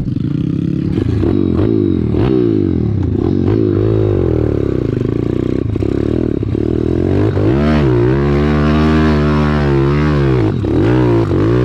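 Pit bike engine being ridden hard, its revs rising and falling over and over as the throttle is worked, held highest for a few seconds in the second half.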